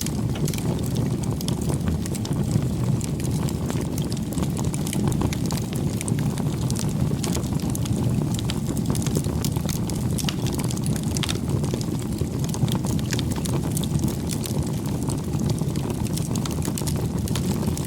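Campfire burning: a steady low rumble of flame with many small, sharp crackles and pops of burning wood scattered throughout.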